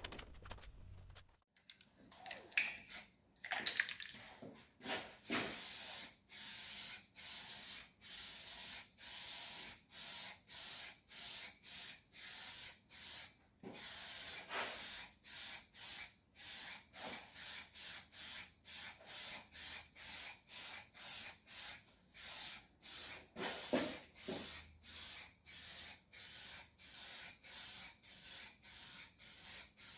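Aerosol spray can hissing in short, regular bursts, about one and a half a second, with a few clicks and knocks in the first seconds.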